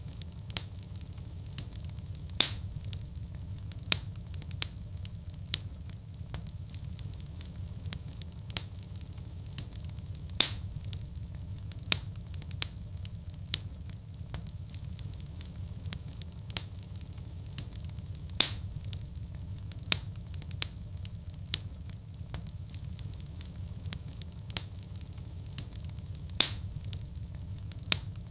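Fire burning in a fireplace, crackling: a steady low rumble with frequent small crackles and sharper pops. The loudest pops come back about every eight seconds.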